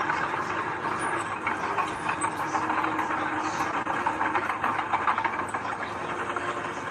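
Heavy earthmoving machinery running steadily, its engine drone mixed with a dense, continuous metallic clatter.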